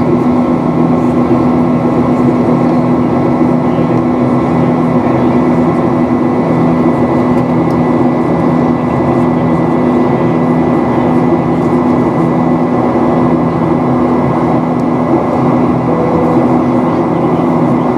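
Steady cabin noise inside a Boeing 737-800 with its CFM56-7B engines running: an even rush of air with a constant low drone and a few steady humming tones.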